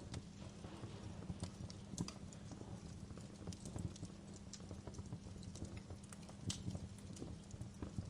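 Wood fire in a fireplace crackling, with irregular sharp pops and snaps over a low steady rumble of the burning.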